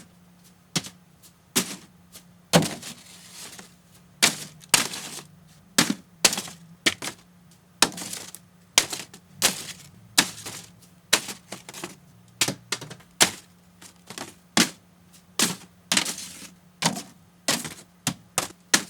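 Paper airplanes striking an empty mini fridge: a quick, uneven run of sharp taps and knocks, one or two a second, some followed by a brief papery swish.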